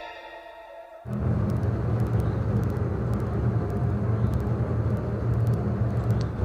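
A violin music cue dies away, then about a second in a steady low rumble starts abruptly and carries on, with a few faint clicks over it.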